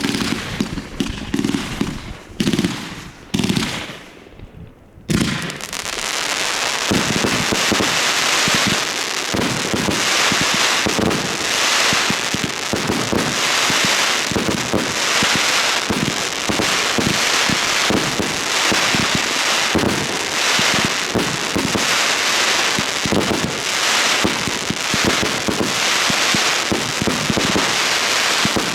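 Consumer fireworks: a few separate sharp bangs, a short lull about four seconds in, then an unbroken dense barrage of crackling and banging that keeps going.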